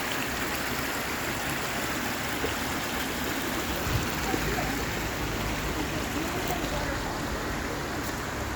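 Small waterfall and stream rushing water, a steady, even rush with no let-up.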